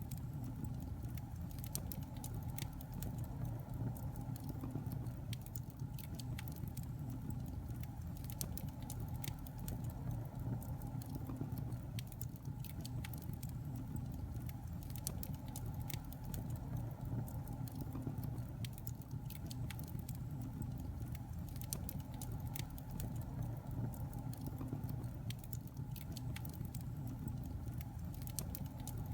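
Wood fire burning in a fireplace: a steady low rumble under frequent irregular crackles and pops from the burning logs.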